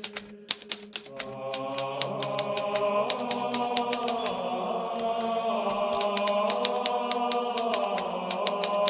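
Hermes Baby portable typewriter keys striking in quick, uneven runs, with a short lull about halfway through. Under it, sustained droning background music comes in about a second in and holds.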